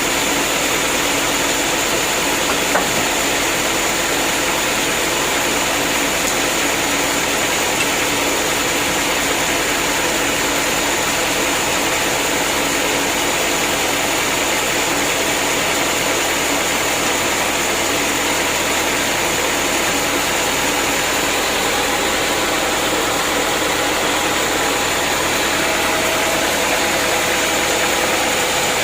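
Sawmill machinery running steadily: a continuous mechanical drone with a constant thin high whine.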